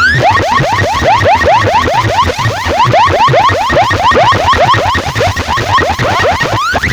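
Loud electronic siren-like whoops, rising sweeps repeating about five times a second like a car alarm, over a pulsing bass.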